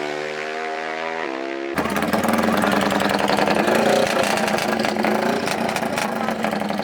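Off-road racing engines. At first one engine is heard revving, its pitch stepping between levels like gear changes. About two seconds in, a much louder engine at full throttle cuts in abruptly, with a rapid pulsing rasp, and runs on steadily.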